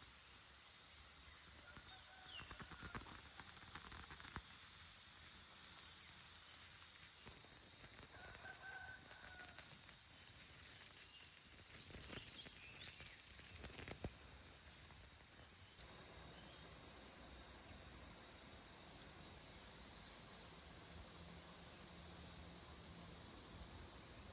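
Rural outdoor sound: a steady high drone of insects (crickets) throughout, with a rooster crowing and other birds chirping briefly now and then.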